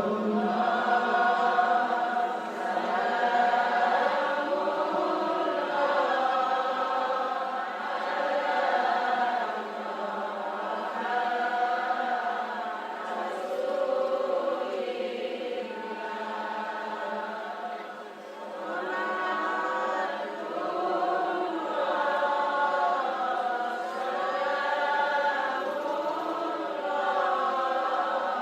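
A group of voices chanting sholawat, the Islamic devotional praise of the Prophet, in long drawn-out melodic lines that rise and fall in slow swells.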